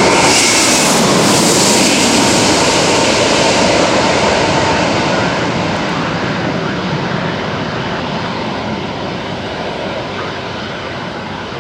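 Boeing 787-9 airliner's jet engines on landing approach, passing low and loud at first, then fading slowly as it moves away.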